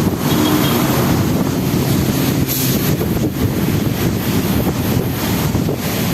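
Strong typhoon wind buffeting the microphone in loud, rumbling gusts, with waves from the bay beneath it.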